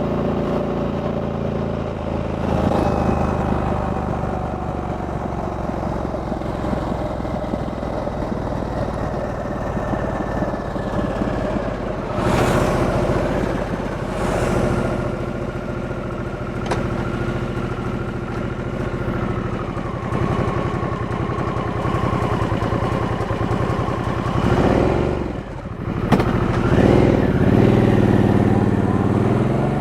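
2023 Harley-Davidson Sportster S's stock liquid-cooled Revolution Max 1250T V-twin running under way, the engine note shifting several times as it changes gear. Near the end the level drops briefly and then the revs climb as it accelerates.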